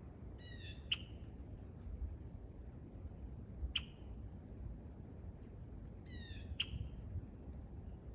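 A wild bird calling three times: two short, harsh calls of falling notes about six seconds apart, and a single sharp note between them.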